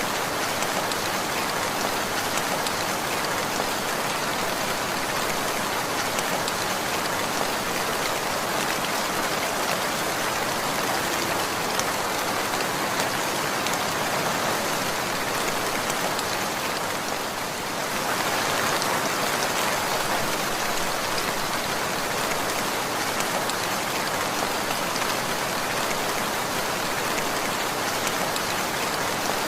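Steady rain falling, a dense continuous patter of raindrops that briefly eases a little over halfway through.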